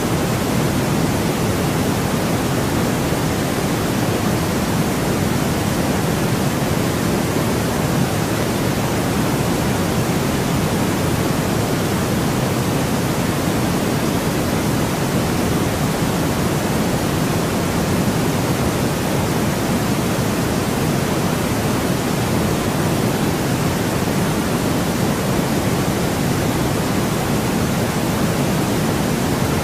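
Steady, unchanging white noise: an even rushing hiss, heaviest in the low range, with no breaks or changes.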